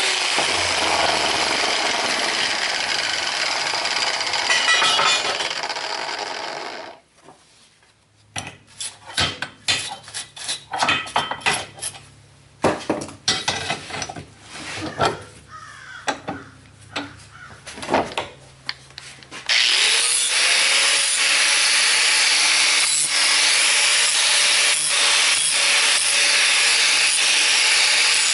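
A power grinder working on steel, cutting off about seven seconds in. About eleven seconds of separate sharp metal clanks and knocks follow. Near the twenty-second mark the grinder spins up again and runs steadily.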